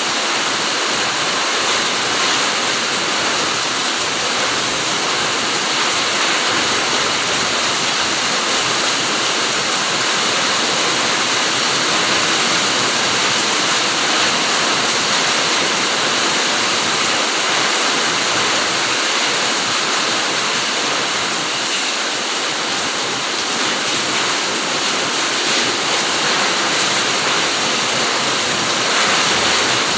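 Steady heavy rain falling in a fruit garden: a dense, even hiss of drops that does not let up.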